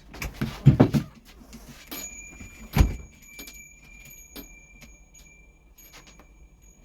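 Knocks and clinks of small hard objects being handled, with two louder thumps, under a second in and again near three seconds. A faint steady high-pitched tone sets in about two seconds in and holds.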